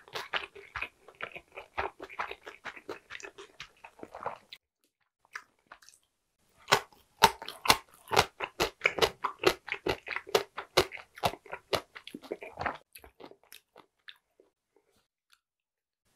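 Close-miked chewing of dumplings: quick wet mouth clicks and smacks in two runs, with a pause of about two seconds in between and a fade a few seconds before the end.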